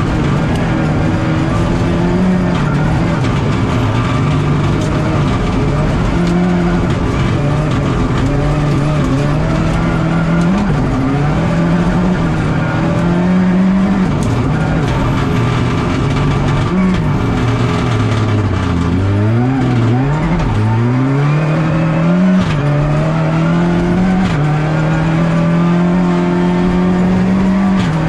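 Rally car engine heard from inside the cockpit, driven hard. Its pitch climbs and drops back again and again through the gear changes, with a run of sharp drops and quick rises a little past halfway, over tyre and road noise.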